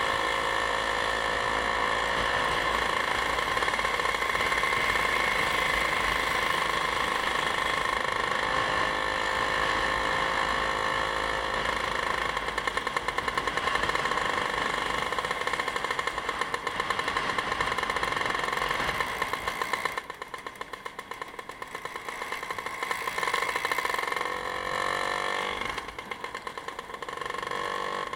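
A vehicle engine running on the road, its pitch easing slowly. About twenty seconds in it drops quieter, and near the end it rises in pitch as the vehicle picks up speed again.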